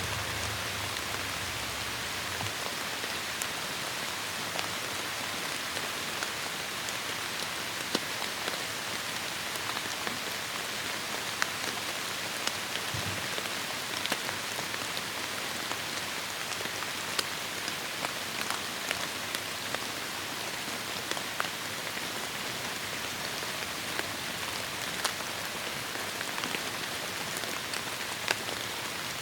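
Heavy rain falling steadily on forest foliage: a dense, even hiss with many sharp drop ticks scattered through it, and a brief low rumble near the start and another about halfway through.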